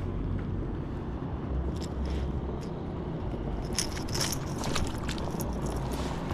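Steady low wind rumble on the microphone, with scattered small clicks and scrapes of handling on a kayak and a quick cluster of them about four seconds in.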